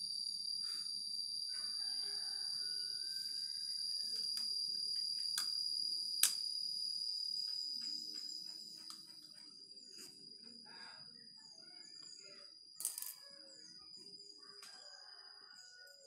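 Insects shrilling in a steady, high, unbroken tone that fades after about half way. A rooster crows in the background about a second and a half in and again near the end, and there are a few sharp clicks.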